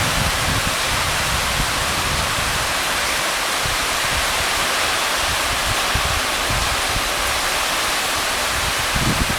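Rain pouring down in a steady, dense hiss, with irregular low rumbling underneath.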